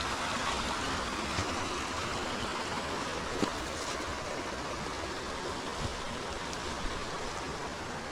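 River water flowing over stones with a steady rushing babble, with a few faint clicks mixed in, the clearest about three and a half seconds in.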